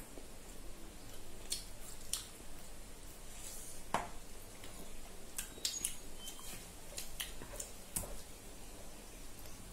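Close-up eating sounds: chewing and biting into a chicken leg piece, with scattered sharp clicks and small wet squishes, the loudest clicks about four and eight seconds in.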